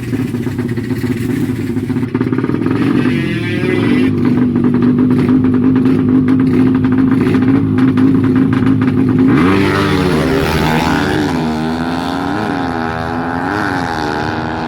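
Honda Karizma motorcycle engine running loud. It is held at a steady pitch for several seconds, then revved up and down repeatedly in the last few seconds.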